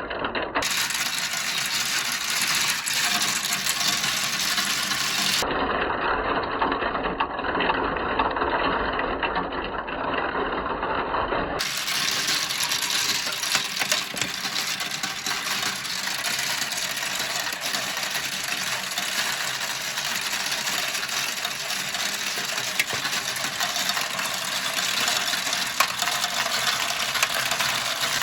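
Marbles rolling and clattering down a plastic marble-run slope: a steady rattle full of small clicks as they run along the track and knock against the pieces.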